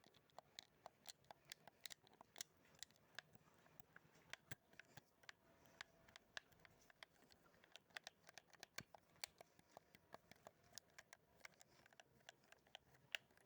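Mouth sounds: quiet, rapid wet clicks and smacks of the lips and tongue, several a second at irregular spacing.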